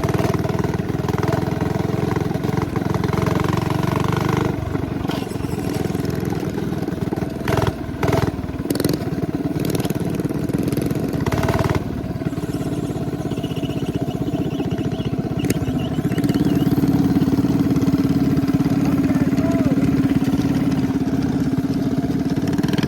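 212cc single-cylinder four-stroke minibike engine running while riding, its note shifting as it speeds up and slows. There are a few brief knocks between about 7 and 12 seconds in, and from about 16 seconds in it holds a steadier note.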